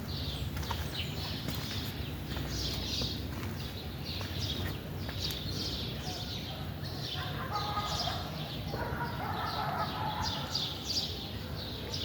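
Birds chirping over and over in quick clusters, with a lower animal call, typical of farmyard fowl, joining about seven seconds in.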